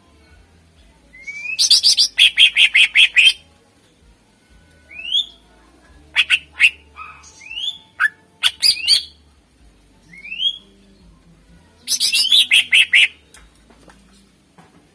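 Cucak ijo (green leafbird) singing loud, varied song. Rising whistled notes lead into fast runs of repeated chattering notes, one about two seconds in and another about twelve seconds in, with scattered whistles and chips between.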